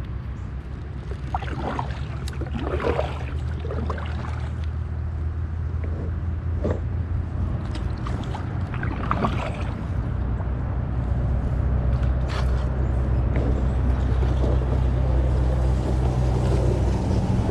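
A steady low motor hum with brief higher-pitched sounds scattered over it.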